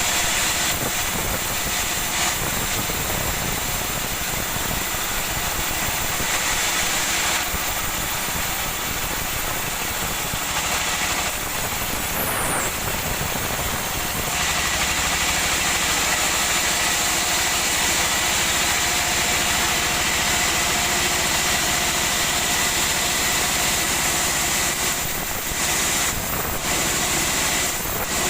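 Sawmill woodworking machinery running steadily and loudly, with a steady high whine over the machine noise, changing in character a few times and dipping briefly near the end.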